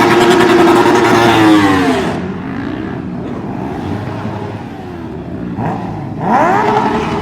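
A car engine revved hard: it climbs, holds high for about two seconds and drops back, runs lower for a few seconds, then revs up again near the end.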